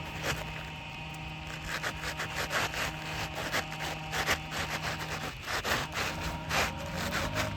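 Asphalt shingle being slid and worked into place under the shingles above, its gritty surface scraping and rubbing in short, irregular strokes.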